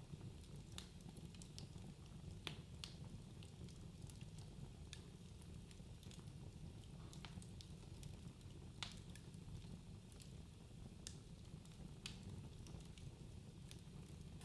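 Wood fire crackling in a fireplace: irregular sharp pops and snaps over a low, steady rumble of the flames, with a couple of louder pops standing out.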